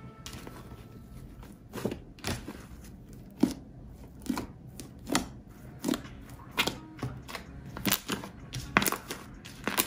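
Slime being pressed and worked by hand, giving sharp clicking pops that come irregularly, roughly one a second.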